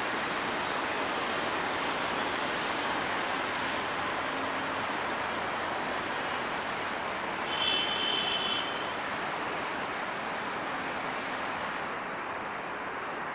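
Passenger train rolling away on the track: a steady rushing rumble of wheels on rail that slowly fades. A brief high squeal comes about eight seconds in.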